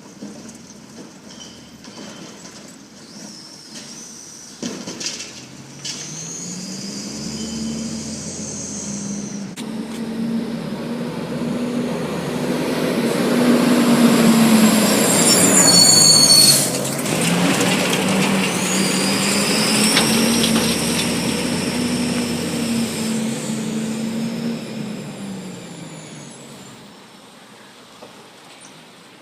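Garbage truck's diesel engine speeding up and holding high revs twice. The first run builds to a loud peak with a high metallic squeal, then the revs drop briefly before rising again. Near the end it falls back to idle.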